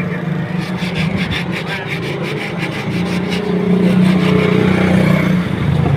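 Motorcycle engine running with a steady hum and a fast, rhythmic rasping over it; the engine gets somewhat louder for a couple of seconds in the middle.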